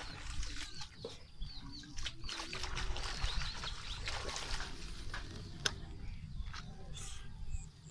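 Small birds chirping, a run of short high chirps in the middle, over a steady low rumble on the microphone, with one sharp click near the end.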